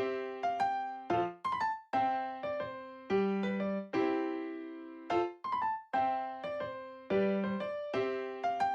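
Background music: a piano-like keyboard playing a repeating phrase of struck notes and chords that ring and fade.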